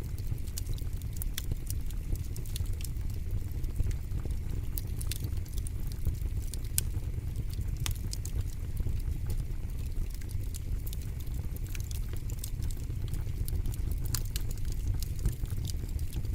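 Fire in a fire pit crackling: frequent, irregular sharp pops and snaps over a steady low rumble.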